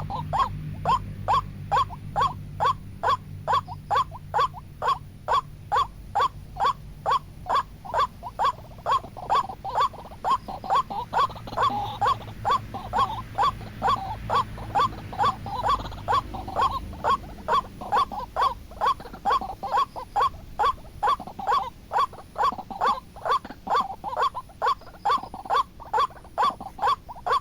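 White-breasted waterhen (ruak-ruak) calling a harsh, even call about twice a second without a break, as used to lure the bird. A low hum runs under the calls for the first half.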